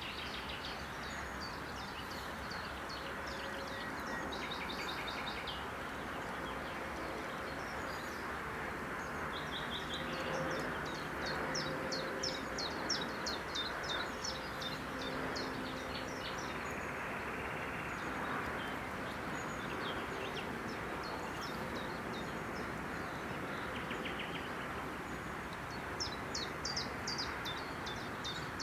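Songbirds singing outdoors over a steady background rush. Their high, rapid trilled phrases come in runs, strongest about ten seconds in and again near the end.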